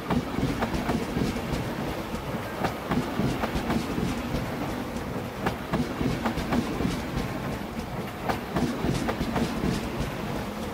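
Deutsche Bahn ICE high-speed train rolling slowly alongside the platform as it pulls into the station: a steady low rumble with the wheels clicking over the track joints again and again.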